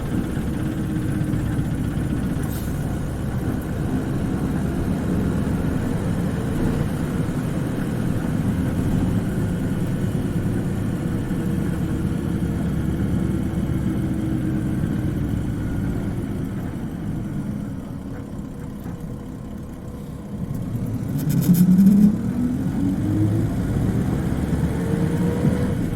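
Isuzu Cubic KC-LV380N city bus diesel engine heard from inside the cabin, running steadily, then easing down for a few seconds. About 21 seconds in there is a short hiss, and the engine pulls away with a rising high-pitched whine, the distinctive high note this particular bus makes when moving off.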